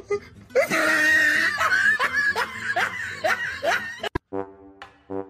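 A person laughing hard in quick rhythmic bursts, about three a second, cut off suddenly after about four seconds.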